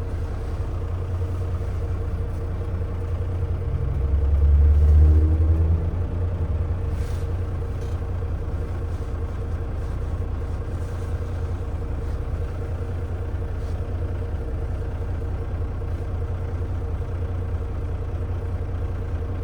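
Tractor-trailer's diesel engine and road noise heard from inside the cab while driving: a steady low drone with a steady hum above it. About four seconds in, it swells louder for a couple of seconds, then settles back.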